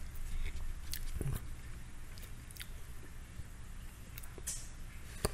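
Close-miked chewing of crispy fried chicken tender, with scattered small crunches and wet mouth clicks.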